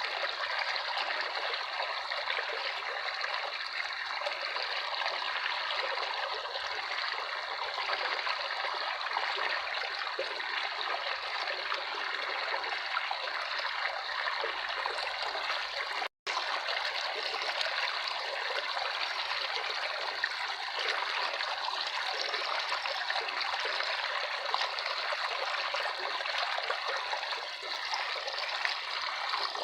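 Running water trickling and splashing steadily, with a brief drop to silence about halfway through.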